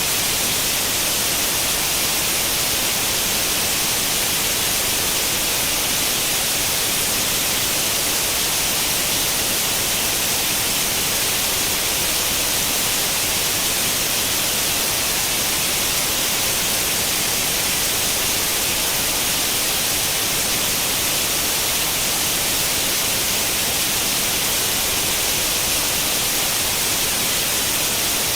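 White noise like the static of an old analog tube television tuned to no channel: a steady, unchanging hiss, strongest in the upper frequencies.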